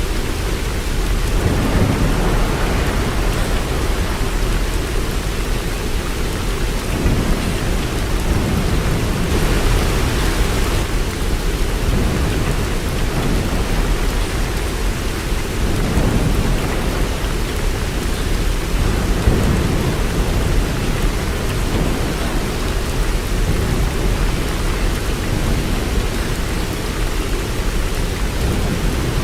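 Steady rain with a low rumbling underneath that swells and fades, and a brief surge of brighter hiss about ten seconds in.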